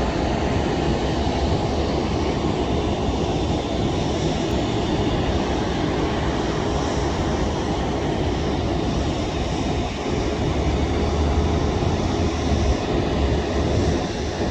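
Jet airliner engine noise, a steady rumble that swells slightly in the second half.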